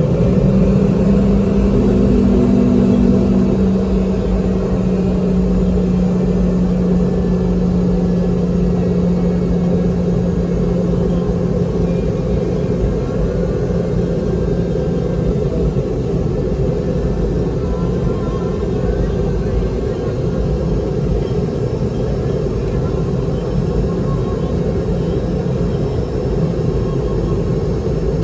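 Cabin noise of a Boeing 717 jetliner taxiing after landing: a steady low rumble from the idling rear-mounted engines and the airframe. An engine tone fades away over the first ten seconds or so.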